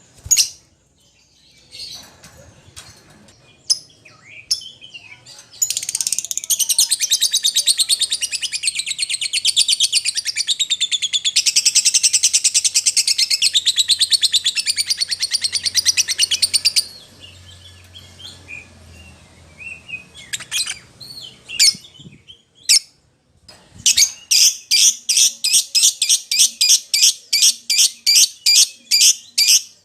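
Lovebird calling: a few sharp shrill chirps, then a long, fast, unbroken chattering trill lasting about eleven seconds, then more scattered chirps and, near the end, a steady run of loud shrill chirps about three a second.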